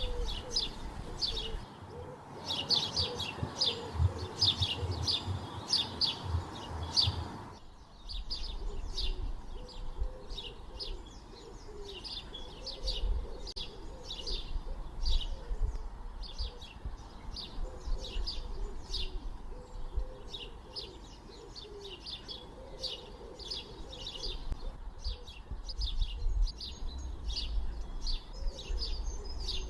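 Birds chirping in quick, repeated high notes, several a second, over a low rumble. The background changes abruptly twice in the first few seconds.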